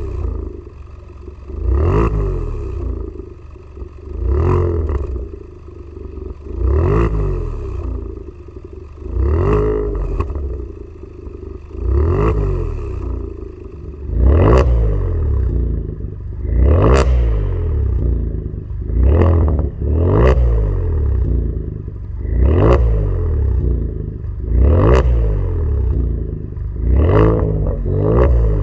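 Kia Stinger 3.3T's twin-turbo V6 through a custom valved mid-and-rear exhaust, revved in quick blips about every two seconds. Each blip rises and falls back toward idle, with a sharp crackle at the top.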